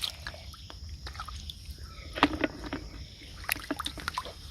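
Shallow water sloshing and splashing as it is disturbed, with a couple of sharp knocks about two and three and a half seconds in.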